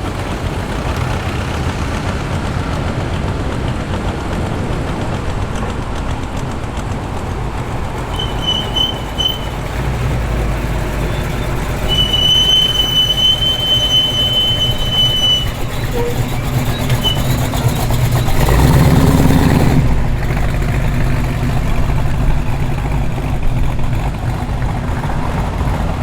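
Car engines running as a muscle car drives in: a steady low rumble that grows louder about ten seconds in and peaks in a brief rev near the end. A steady high-pitched squeal is heard briefly twice, the longer one lasting about three seconds.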